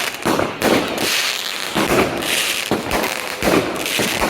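Firecrackers going off in a rapid, irregular string of sharp bangs.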